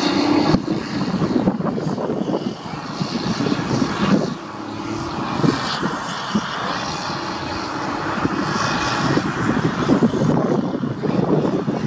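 Diesel freight locomotive running under load as it hauls a long container train past, its engine drone mixed with the irregular clatter and rumble of the wagons on the track.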